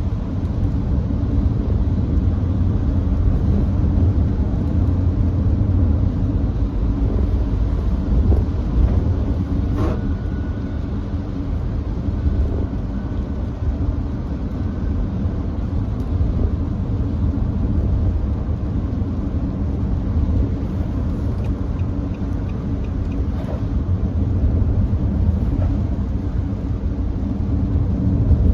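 Nissan Note e-POWER cruising at steady speed on a rain-wet highway: a steady low rumble of road and tyre noise. A single sharp click comes about ten seconds in.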